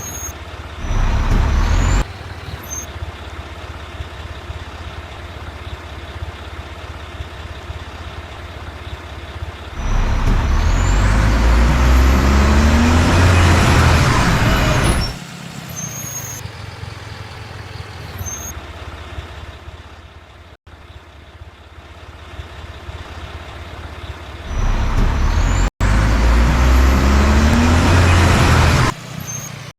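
Mack rear-loader garbage truck's diesel engine running, climbing to high revs for a few seconds three times: briefly about a second in, then for about five seconds in the middle and again for about four seconds near the end, dropping back to lower steady running in between.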